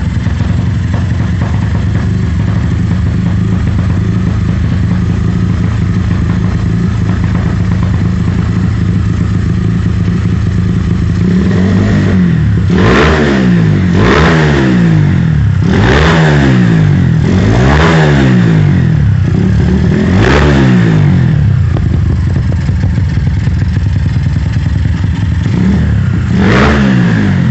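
Tuned pushrod single-cylinder motorcycle engine with a CRF piston, running on ethanol, idling steadily. It is then blipped up and back down five times in quick succession, about every two seconds, settles back to idle, and is blipped once more near the end.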